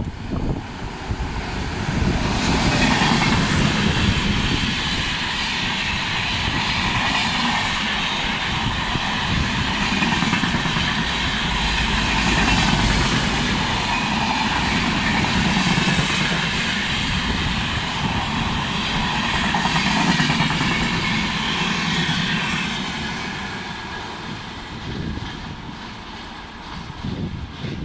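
A passenger train passing at high speed, with a steady rush of wheels on rail and rhythmic clickety-clack of wheels over rail joints. It builds about two seconds in and fades as the train draws away near the end.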